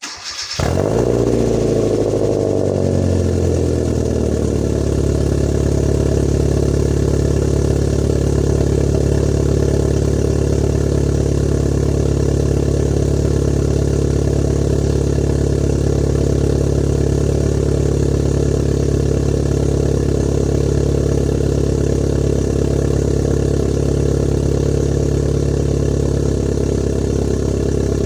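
Kia Cerato Koup's 1.6-litre naturally aspirated four-cylinder engine on a cold start, breathing through a custom 4-2-1 exhaust manifold, high-flow cat and valved exhaust. It cranks briefly and catches, the revs flare and then drop back over the first few seconds, and it settles into a steady idle.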